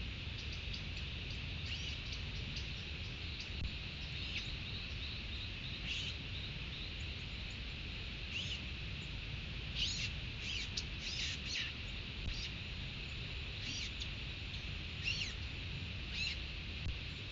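Wild birds calling: scattered short chirps and quick downward-sweeping notes, with a cluster of calls in the middle, over a steady low outdoor rush.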